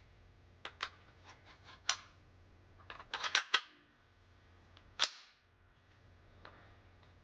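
Metal parts of a PPSh-41 submachine gun clicking and clacking as it is handled: several light clicks, a quick run of sharper clacks about three seconds in, and one louder clack about five seconds in.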